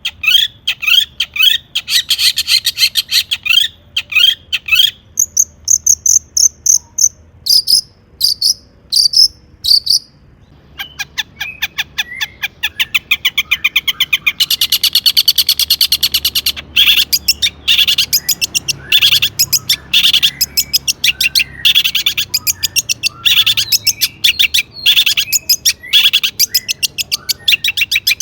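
Long-tailed shrike (cendet) singing a loud, fast, varied song: rapid runs of short falling notes and higher whistled notes, a brief pause about a third of the way in, then a dense, fast chattering trill.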